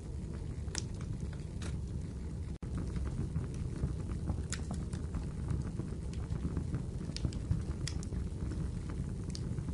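Wood fire burning in a fireplace: a steady low rumble of flames with scattered sharp crackles and pops from the burning wood. The sound cuts out for an instant about two and a half seconds in.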